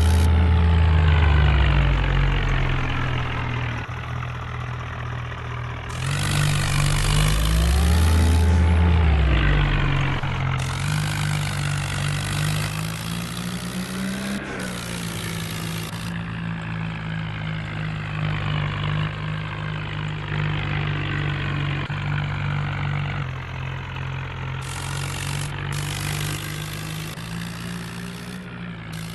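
Tractor engine running, revved high at first and dropping away, then revving up and easing off again a few times, with stretches of hiss over it.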